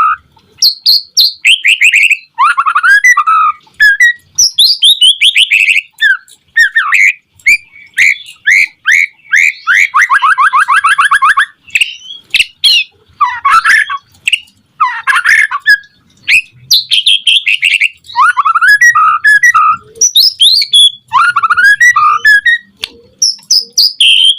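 White-rumped shama (murai batu) singing loudly and continuously: varied whistled phrases of quick rising and falling notes, with a fast, even trill lasting over a second about ten seconds in.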